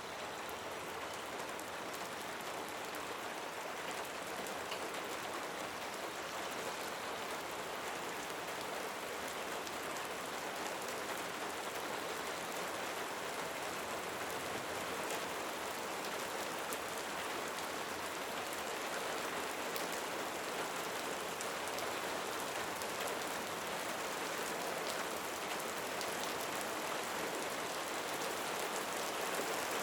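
Steady rain falling, a dense even hiss with fine pattering drops, growing slightly louder over the stretch.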